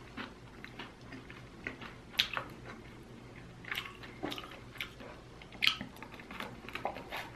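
Close-up eating sounds of a glazed chicken wing: wet, sticky chewing clicks and lip smacks at irregular intervals, with a bite into the wing near the end.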